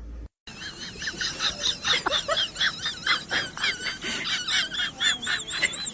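A chorus of rapid, high-pitched chirping squeals from a group of small animals, several calls a second, starting after a short break about half a second in.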